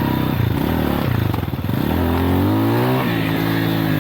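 Motorcycle engine under way with the throttle working. Its pitch dips, climbs from about two seconds in, then drops suddenly at about three seconds and holds steady.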